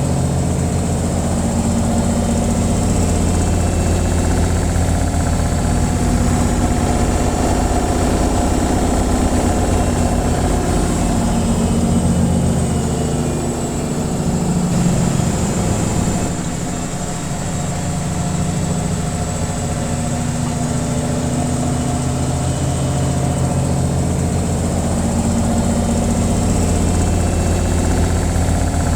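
Washing machine on its spin cycle: a steady mechanical hum with a fast, even rumble of drum vibration, easing off slightly for a few seconds around the middle before settling back.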